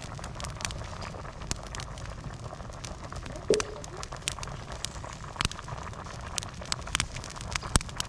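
Wood campfire crackling, with scattered sharp pops and clicks over a steady low background and one brief louder sound about halfway through.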